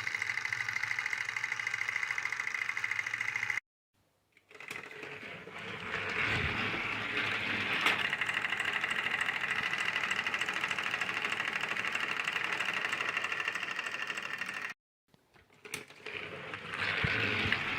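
Small electric motor and gearbox of a battery-powered toy train whirring steadily under load. It cuts out abruptly twice, about four and fifteen seconds in, and each time builds back up over a second or two.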